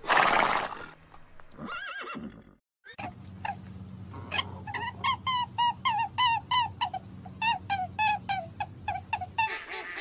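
A horse's neigh ends in a loud snort at the start. After a brief silence comes a run of short squeaky calls, each rising and falling, about two a second over a low steady hum, stopping just before the end.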